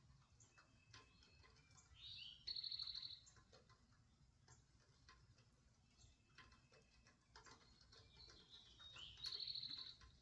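A bird singing the same short phrase twice, about six seconds apart: a quick rising-and-falling note run straight into a rapid, buzzy trill, each phrase about a second long. Faint scattered ticks sound between the phrases.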